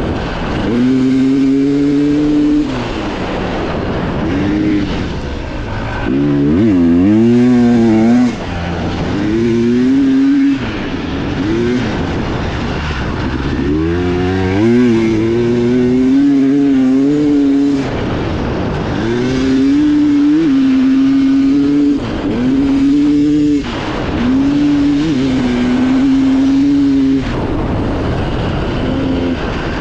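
Dirt bike engine ridden hard on a trail, its revs climbing and falling every few seconds as the throttle is opened and shut, with abrupt drops where the throttle is chopped.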